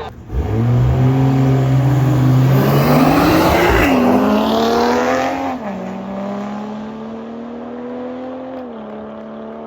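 Car accelerating hard in a street drag race: the engine revs up with loud tyre and exhaust noise, its pitch climbing for about four seconds, then dropping sharply twice before it carries on more steadily and quieter as it pulls away.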